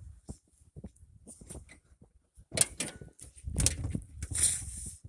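Footsteps crunching through snow, irregular steps with rustling, louder and denser in the last two and a half seconds.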